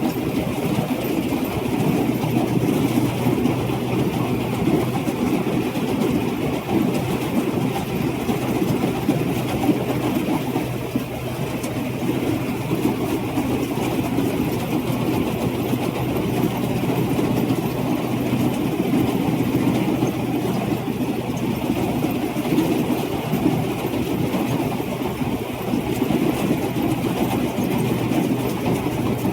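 Rice combine harvester running steadily, its diesel engine humming evenly with the rattle of the harvesting machinery.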